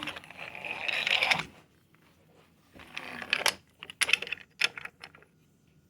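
Toy trains being handled and pushed along the track: a rushing hiss for about a second and a half, then a scatter of sharp small clicks and clacks.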